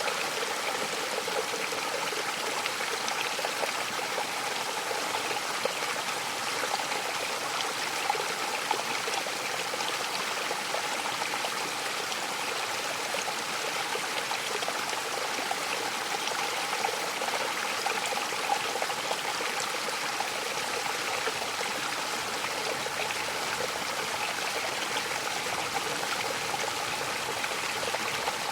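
Mountain waterfall: a steady rush and splash of falling water, unbroken, with its sound mostly in the middle and upper range and little deep rumble.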